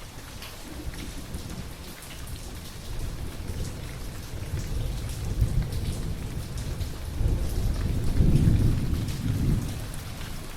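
Steady rain with rolling thunder. A low rumble builds from about three seconds in, is loudest near the end, then fades.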